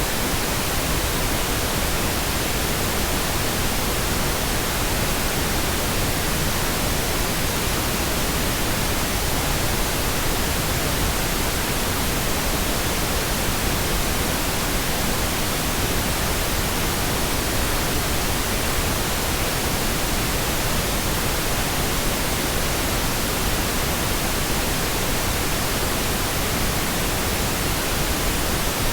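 Synthetic pink noise: a steady, unchanging hiss spread evenly across the whole range of pitch, with no events.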